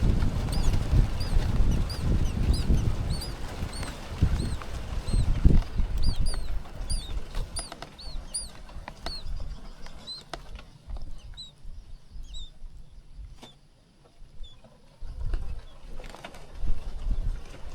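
Nestling birds cheeping in a rapid series of short, high chirps, thinning out and stopping after about twelve seconds. A low rumble runs under the first six seconds and returns near the end.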